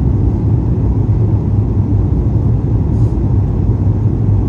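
Steady low rumble of cabin noise inside a Boeing 737 MAX 8 airliner, with a faint tick about three seconds in.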